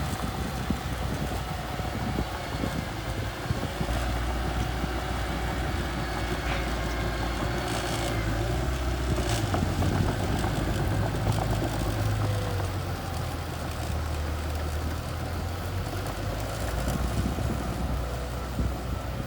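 Small bulldozer's diesel engine running steadily, with a couple of sharp clanks around the middle.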